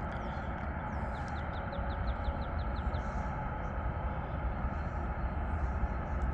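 A slow-moving train approaching, a steady low rumble. About a second in, a bird gives a quick trill of a dozen or so short chirps lasting under two seconds.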